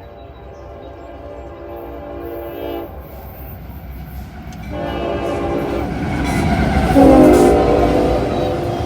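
Locomotive air horn sounding two blasts, a short one and then a longer one, over the growing rumble of an approaching train. The second blast is loudest about seven seconds in, where its pitch drops as the locomotive passes.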